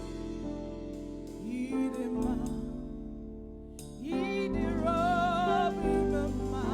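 Slow gospel worship music: sustained keyboard chords over a low bass, between sung lines. About four seconds in, a singer comes in with held, wavering notes.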